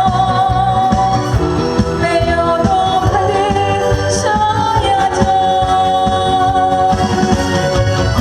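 A trot song performed live: a singer holds long notes over instrumental accompaniment with a steady beat.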